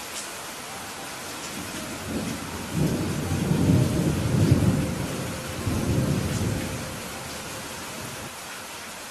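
Steady rain with a long rolling rumble of thunder that swells in about two seconds in, peaks in the middle and fades away by about seven seconds.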